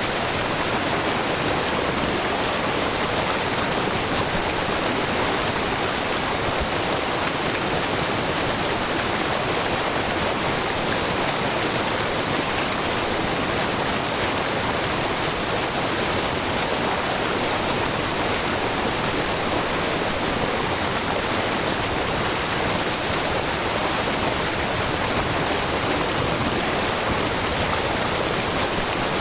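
A low, wide waterfall, with many thin streams of spring water falling about 3 m down a rock face, and the brook below it. The water rushes and splashes in a steady, unbroken hiss.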